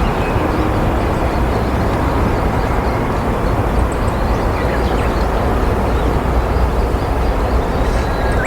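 Steady low outdoor rumble with a few faint, short high bird chirps.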